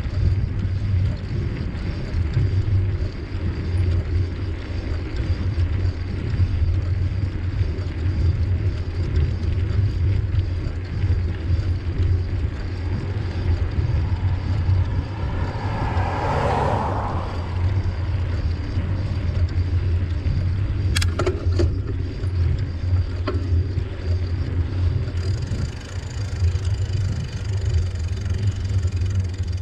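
Steady low rumble of wind buffeting the microphone and tyres rolling over the trail on a moving bicycle. A brief swelling sound comes a little past halfway, and a few sharp clicks follow a few seconds later.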